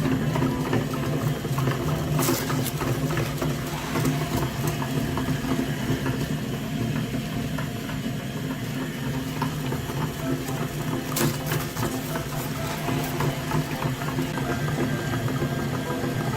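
Mini tractor engine running steadily, with a couple of sharp clicks about two seconds and eleven seconds in.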